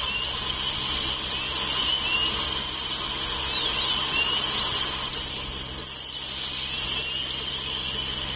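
High, thin bird calls: short rising and falling chirps, several every second or two, over a steady hiss and a low electrical hum.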